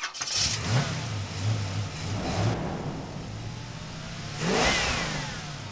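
Car engine revving in bursts, with a rising whoosh about four and a half seconds in.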